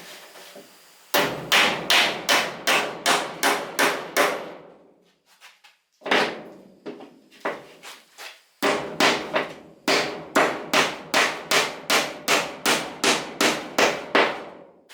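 Hammer blows on wood in quick, even runs of about three strikes a second, with a pause of a second or two around the middle.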